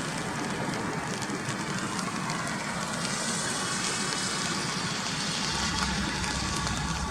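Steady rainfall with scattered drops tapping close by. A low rumble builds near the end.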